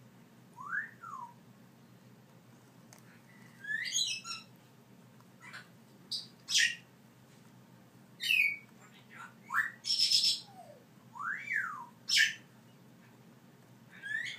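African grey parrot chicks calling: a string of short whistles that slide up and down, mixed with short harsh squawks, a second or two apart.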